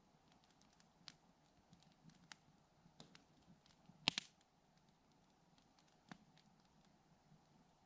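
Campfire crackling faintly, with scattered small pops and a louder, sharp double snap about four seconds in.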